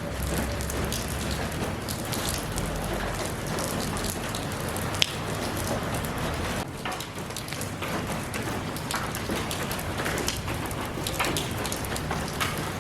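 Steady rain falling, with many individual drops pattering close by, and one sharp click about five seconds in.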